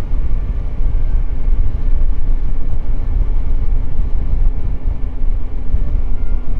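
Yamaha Ténéré 700's parallel-twin engine running steadily under way, under a heavy low rumble of wind on the microphone.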